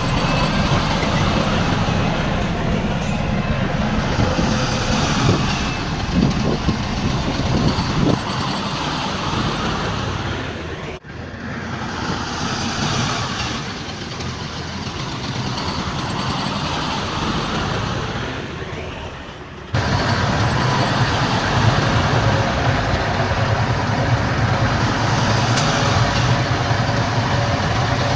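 Diesel engines of heavy earthmoving machinery, a bulldozer and dump trucks, running steadily under load, with a few sharp knocks in the first several seconds. The sound changes abruptly twice, about a third of the way in and again about two thirds in, where one shot cuts to another.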